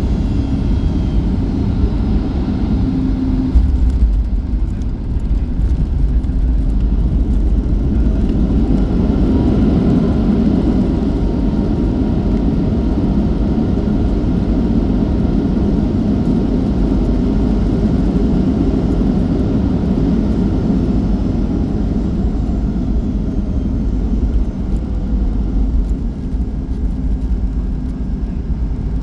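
Boeing 737-8 MAX cabin noise on landing: a loud, steady rumble of the CFM LEAP-1B engines and airflow. A short thump comes about three and a half seconds in. An engine whine rises about nine seconds in, holds, and falls away after about twenty seconds.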